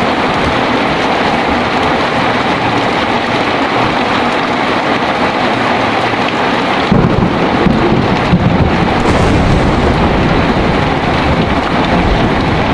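Heavy rain pouring steadily, and about halfway through a deep roll of thunder rumbles in and keeps rolling.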